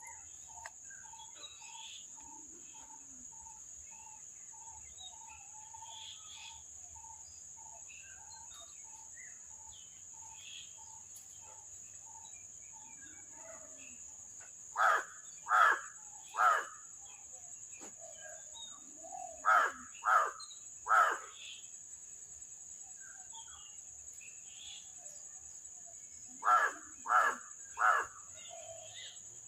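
A crow cawing in runs of three, three times over, against a steady high-pitched insect whine. During the first half, a bird repeats a short note about twice a second.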